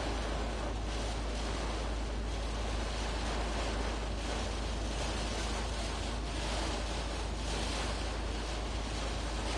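Heavy rain pouring down in gusty wind: a steady rush that swells in surges every second or two, with wind buffeting the microphone in a low rumble.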